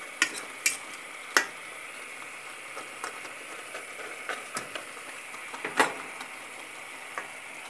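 Chicken livers and onions sizzling steadily in oil in a metal pot, with a fork clicking and scraping against the pot as they are stirred. The clicks come a few at a time, the sharpest about a second and a half in and again near six seconds.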